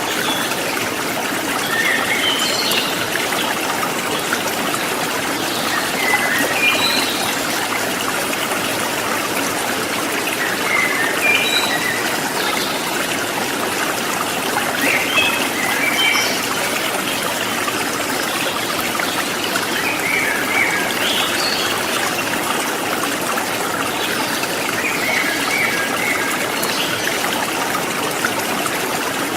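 River water flowing and trickling over rocks, a steady rushing, with short high-pitched notes every few seconds above it.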